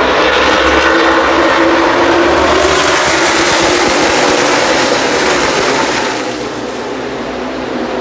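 A pack of NASCAR Cup stock cars' V8 engines running flat out past on a restart, a dense wall of engine noise that builds to its loudest in the middle and drops off about six seconds in.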